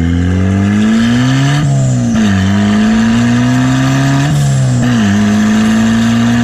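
Turbocharged Mazda Miata four-cylinder engine pulling through the gears. The revs climb, drop at an upshift about a second and a half in, climb again, drop at a second upshift about five seconds in, then hold steady. The engine is an untuned turbo setup that the driver says is breaking up badly under boost.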